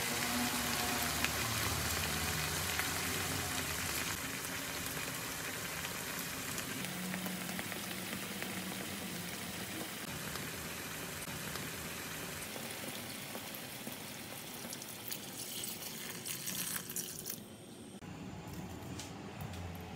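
Diced pork belly with onion and scallions sizzling in a frying pan: a steady sizzle that slowly softens and drops away near the end.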